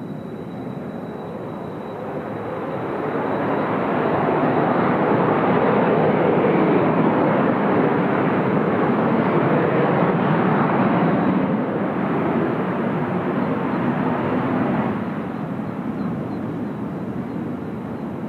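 Kawasaki T-4 jet trainers flying past: a jet engine noise that swells over about two seconds, holds, then fades away from about fifteen seconds in. The deep bass is thinned by the microphone's low-cut filter.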